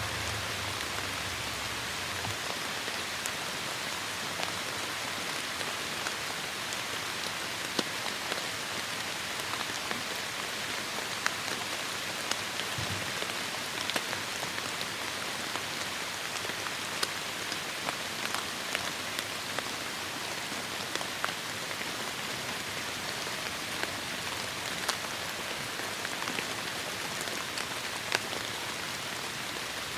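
Heavy rain falling steadily, with a constant hiss and many sharp individual drop ticks scattered throughout. A low rumble fades out in the first two seconds.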